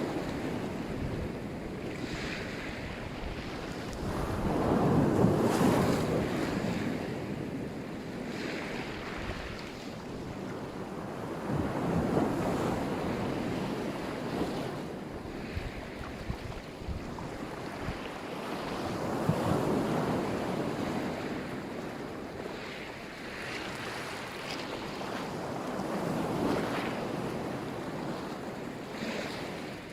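Black Sea surf breaking on the shore, a wave swelling and washing in about every seven seconds, with wind rumbling on the microphone.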